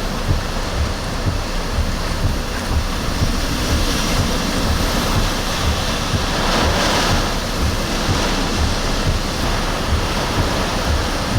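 Hurricane-force wind blowing steadily and buffeting the microphone in heavy low thumps, with a stronger gust swelling about six and a half seconds in.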